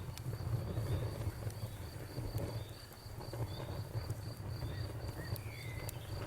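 Campfire crackling with scattered sharp pops over a low, steady rumble of flames, while crickets chirp in an even, steady pulse.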